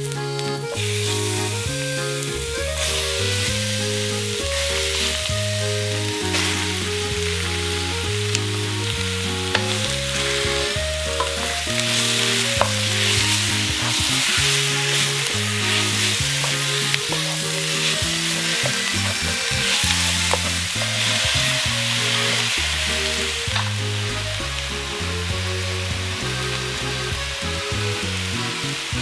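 Sliced sirloin beef, onions and garlic sizzling in hot oil in a wok and being stirred with a wooden spatula, with scattered scraping clicks; the sizzle grows louder partway through. Background music with a melodic bass line plays under it.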